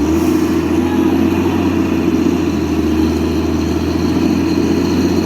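Heavy diesel truck engine running loud and steady under power, cutting in abruptly at the start.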